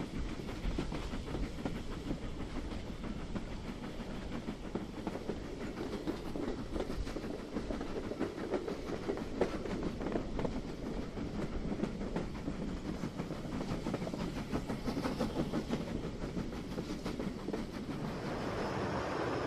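A train running along rails: a steady rattle of many small wheel clicks.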